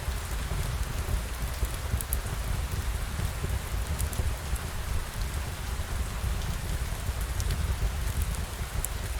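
Steady rain falling on surfaces, with a deep low rumble underneath and a few light ticks scattered throughout.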